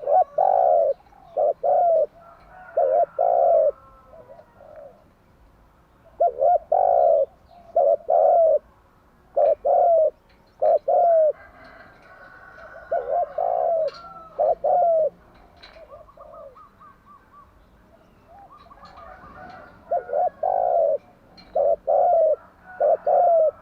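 Spotted dove cooing: groups of three or four short, deep coos, each group followed by a pause of a few seconds, with faint chirps from other small birds between the groups.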